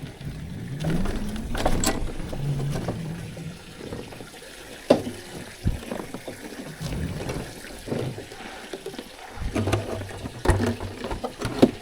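Water splashing and trickling, with scattered knocks and clicks throughout.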